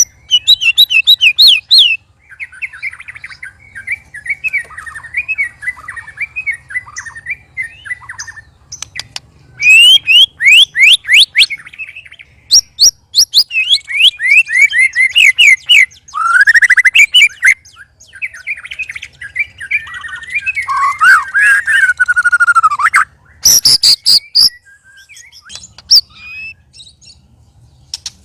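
White-rumped shamas (murai batu) singing loudly, strange-sounding song: quick runs of sharp sliding whistled notes alternating with warbling phrases and a few harsh rasping notes, the phrases coming one after another with short gaps.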